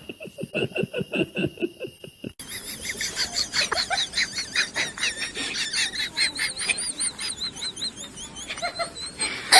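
A run of short rhythmic sounds gives way, after a cut about two seconds in, to a small bird chirping rapidly in quick high, arching chirps, several a second.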